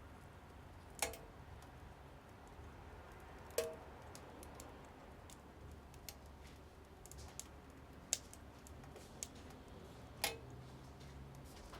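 Small wood fire crackling inside a mini wood stove: scattered faint ticks with a few sharp pops.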